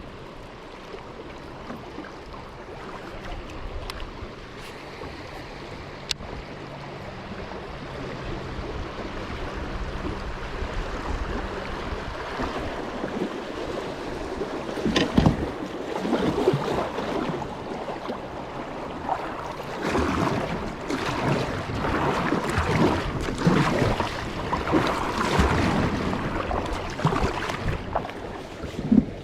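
Creek water rushing and splashing around a kayak, with wind buffeting the microphone. The water grows louder and more splashy about halfway through.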